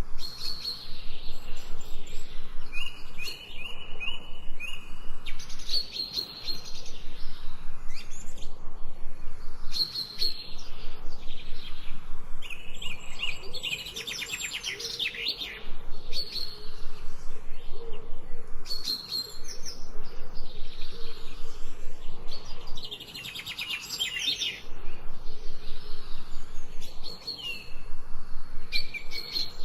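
Birds chirping and singing, with several calls overlapping: bouts of rapid, repeated high chirps and trills a few seconds long, broken by short pauses.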